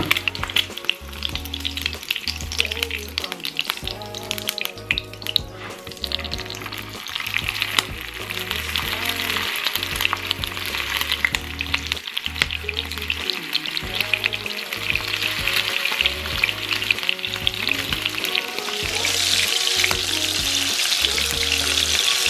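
Egg and then sliced hotdogs frying in hot oil in a nonstick pan: a steady sizzle full of fine crackling spatters, growing louder in the second half, with background music underneath.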